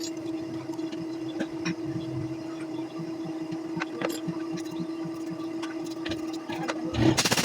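A steady machine hum, with scattered light clicks and taps of small carburetor parts being handled during cleaning.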